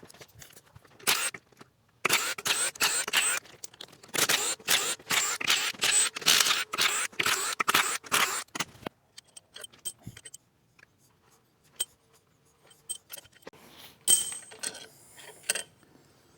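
Hand ratchet clicking in quick bursts while loosening cylinder head bolts, followed near the end by a few ringing metallic clinks of tools or bolts.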